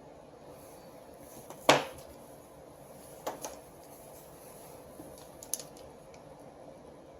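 A few irregular sharp clicks and knocks of hard metal and plastic parts being handled: one loud knock, then a quick pair and a couple of lighter clicks.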